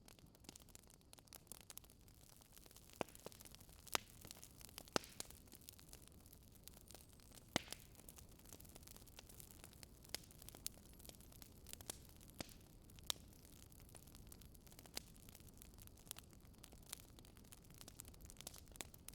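Wood fire crackling: irregular sharp pops and snaps, a few louder ones, over a low steady hiss.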